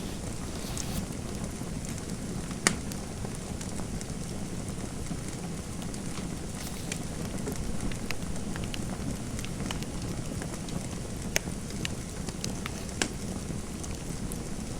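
Fire crackling in a fireplace: a steady low rush with scattered sharp pops, the loudest about two and a half seconds in.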